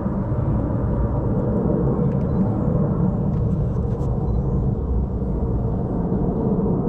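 Steady low rumble of jet aircraft engines at a distance, holding level without rising or falling.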